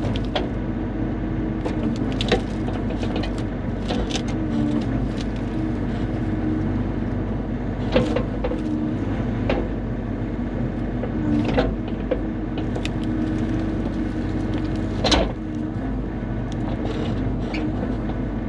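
Bobcat E35 mini excavator's diesel engine running steadily while working, with a few sharp clanks and knocks, about four, as the bucket handles spruce logs.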